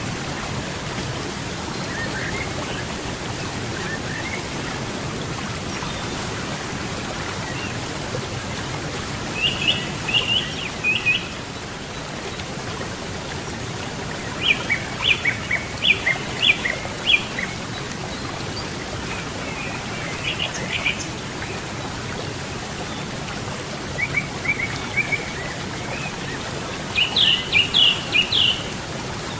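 Steady rush of flowing river water, with small birds singing short runs of quick chirps every few seconds over it.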